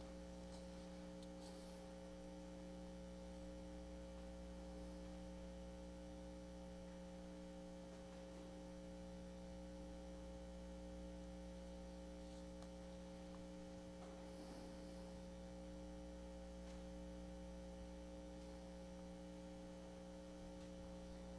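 Faint, steady electrical hum, with no other sound standing out.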